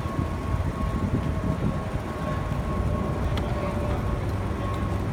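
Steady low vehicle rumble with a faint, steady high whine over it.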